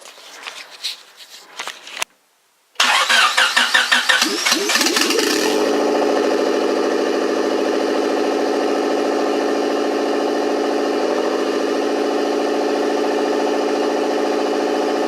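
Turbocharged Honda D16Y8 1.6-litre SOHC VTEC four-cylinder engine being started: the starter cranks it in rapid pulses for a couple of seconds, then the engine catches and settles into a steady idle.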